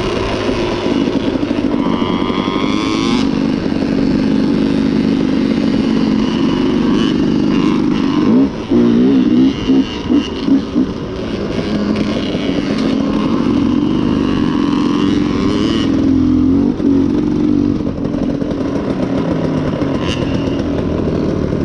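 Dirt bike engine running under way, its pitch rising and falling with the throttle. About eight to eleven seconds in come several quick throttle blips.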